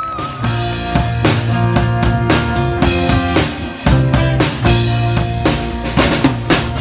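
Band music: a drum kit keeps a steady beat with snare and bass drum hits under bass and held instrument notes.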